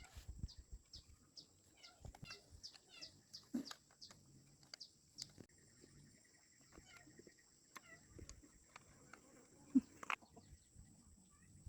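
Birds chirping repeatedly, with short high calls that fall in pitch. A few soft knocks sound underneath, and one sharp knock comes near the end.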